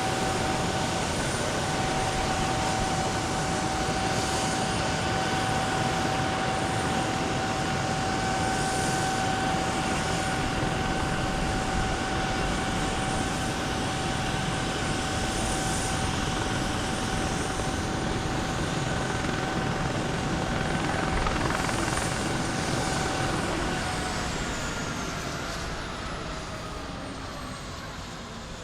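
Helicopter turbine and rotor running with a steady high whine over a rushing noise. Near the end the whine falls in pitch and the whole sound fades as the engine winds down after landing.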